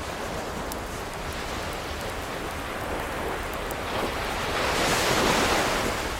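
An ocean wave surging in, swelling to a peak about five seconds in and then easing off, over the faint crackle of a wood fire.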